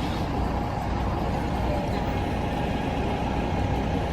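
Steady street traffic and idling vehicle engine noise, a low even rumble with a thin steady tone over it.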